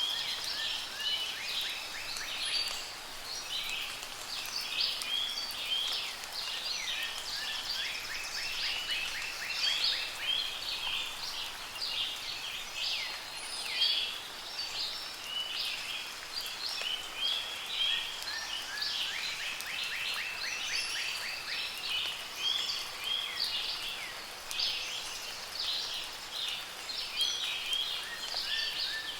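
A chorus of songbirds chirping and singing without pause, several calls overlapping, with repeated rapid trills, over a steady soft hiss of light rain.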